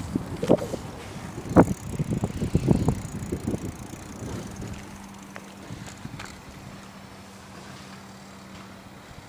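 Garbage truck collecting yard waste: a run of knocks and clatters over the first few seconds, loudest about a second and a half in, then a steady low hum from about halfway through.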